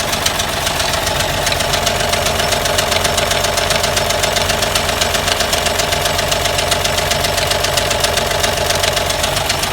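Toyota 2F inline-six pushrod engine running steadily at idle with a rapid, even ticking from the valvetrain. The uploader blames the tick on pushrods (valve lash) that are not properly adjusted.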